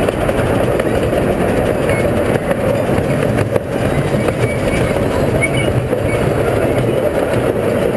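Steady rumble of a zoo ride's miniature train running along its track, heard from aboard.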